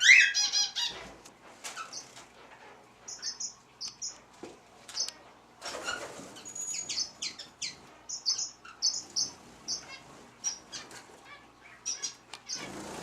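Birds chirping in short, high, repeated calls, with a few brief bursts of wings flapping. The loudest call comes right at the start.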